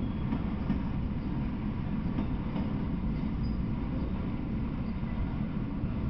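Freight train of autorack cars rolling past at speed: a steady low rumble of steel wheels on the rails, with a few faint clacks.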